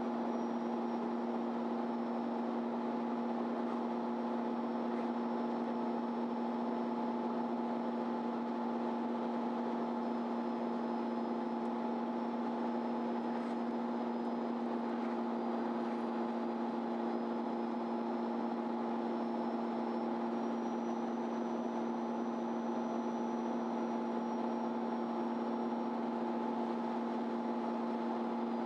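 Inside a MAN Lion's City Ü city bus: a steady, unchanging hum of the engine and onboard equipment running with the bus standing still, holding a few fixed tones under a faint high whine.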